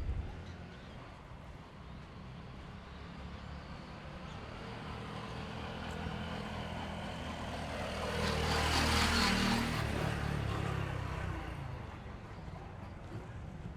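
A road vehicle passing by: its tyre hiss and engine hum slowly swell to a peak about nine seconds in, then fade away.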